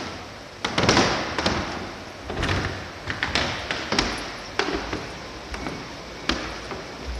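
A series of irregular knocks, taps and thumps over a noisy background, the loudest cluster about a second in.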